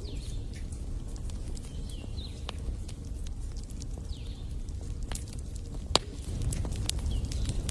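Wood fire crackling in a fireplace: irregular sharp pops and snaps over a steady low rumble, with one loud pop about six seconds in.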